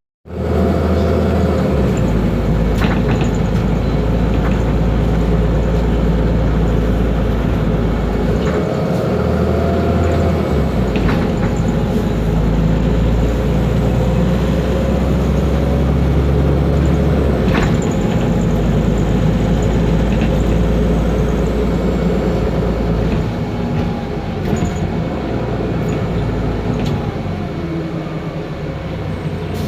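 Otokar Kent LF city bus running, its Ford Ecotorq diesel engine and Voith DIWA automatic transmission giving a steady deep rumble. A whine rises and falls in pitch a few times, and there are occasional sharp knocks and rattles.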